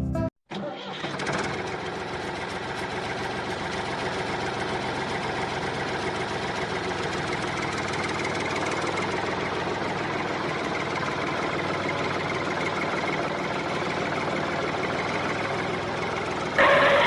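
Tractor engine running steadily after a brief drop-out at the start. A louder, brighter sound cuts in near the end.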